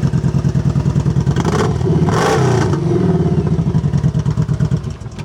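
2014 Kawasaki Vaquero's 1700cc V-twin idling through Vance & Hines dual exhaust. It is revved twice, about one and a half and two seconds in, and settles back to idle. It revs up cleanly, and the engine sound falls away near the end.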